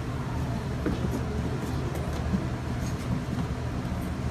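Steady low drone of a running vehicle, with a few faint light clicks.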